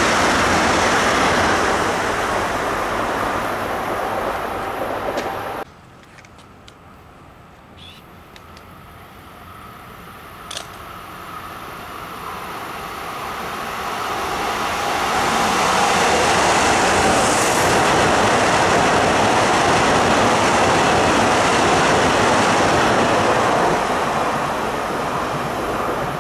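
Metro-North electric commuter train running past a station platform, cutting off suddenly about five seconds in. Then another train approaches with a rising rumble, passes loudly and fades near the end.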